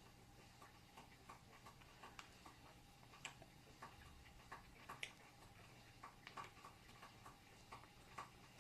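Near silence: faint room tone with scattered small clicks and ticks at an irregular pace.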